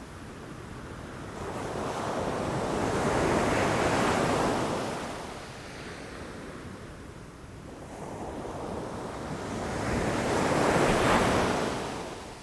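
Ocean waves breaking against rocks, two surges that build and fade, one about four seconds in and a stronger one near the end, with some wind on the microphone.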